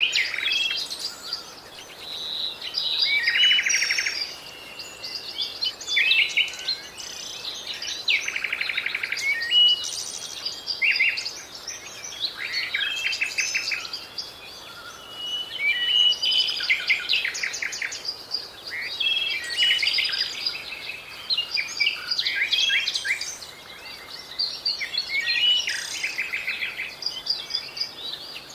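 A bird singing a long, varied song of chirps, short whistles and fast buzzy trills, phrase after phrase with brief pauses.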